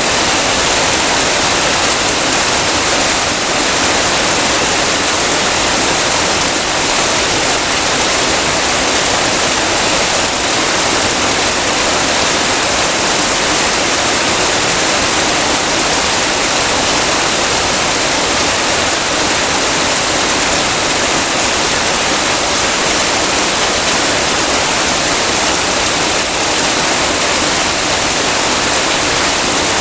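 Heavy rain falling in a steady, unbroken hiss, loud and even throughout.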